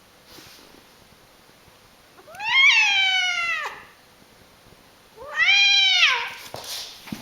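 Domestic cat giving two long, loud yowling meows, each rising and then dropping in pitch, about three seconds apart.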